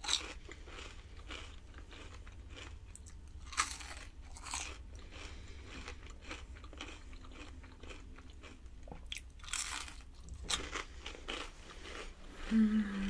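Crunching and chewing of a crispy battered onion ring, with several crisp bites spread through the chewing. A short low vocal sound near the end.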